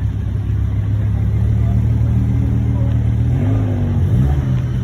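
Car engine running with a steady low rumble, its pitch rising and falling briefly about three and a half seconds in as the engine is revved.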